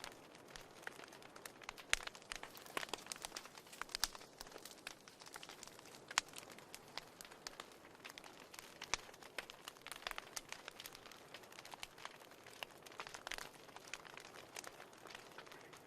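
Wood fire in a fireplace crackling: irregular sharp pops and snaps over a low hiss.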